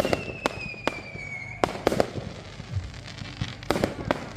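Fireworks going off in a rapid run of sharp bangs. A whistle falling slightly in pitch sounds over the first second and a half, with more bangs spread through the rest.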